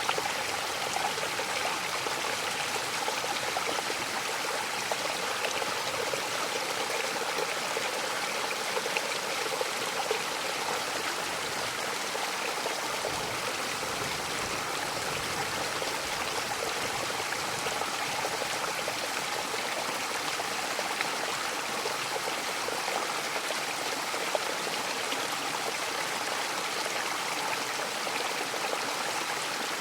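Mountain waterfall splashing steadily, an even rush of water with no changes.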